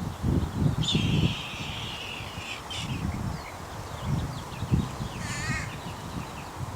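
Harsh bird calls: a long, slightly falling scream about a second in, then a shorter wavering call about five seconds in. Wind buffets the microphone throughout.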